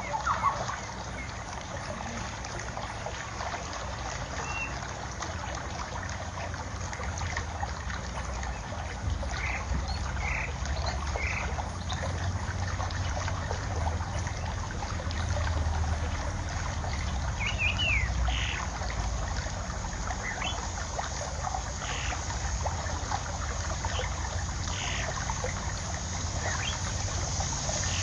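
Water trickling steadily, with short bird chirps dotted through it and a low rumble of wind.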